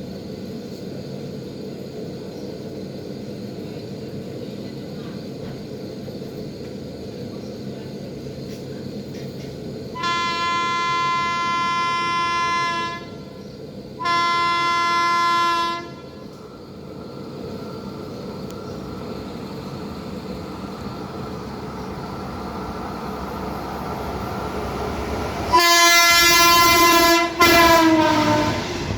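WAP-5 electric locomotive sounding its horn: two long steady blasts about ten and fourteen seconds in as the train approaches, over a growing rumble. Near the end two much louder blasts whose pitch drops as the locomotive rushes past, followed by the heavy rumble of the passing express.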